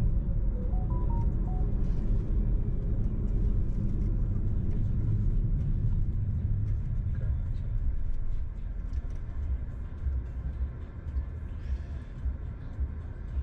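Car driving on the road: a steady low rumble of engine and tyres that becomes quieter about eight seconds in. A brief run of short tones at different pitches sounds about a second in.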